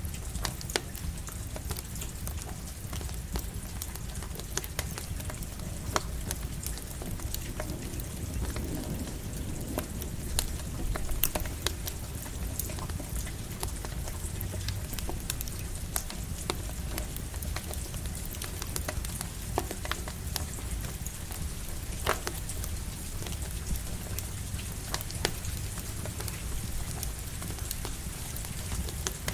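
Steady rain mixed with a crackling campfire: an even hiss of rain with sharp pops and snaps scattered throughout, over a steady low rumble.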